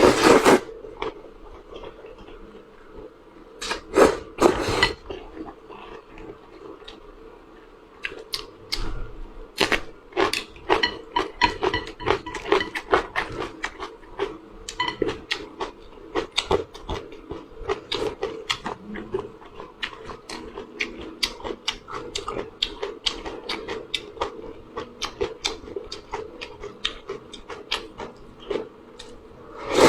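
Close-miked eating of spicy fire noodles: quick wet chewing and mouth clicks several times a second, with a few louder, longer eating noises in the first five seconds.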